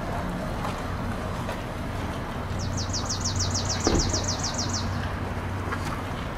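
A bird's rapid trill of about fifteen high notes, each sliding downward, over a steady low hum, with a single knock about four seconds in.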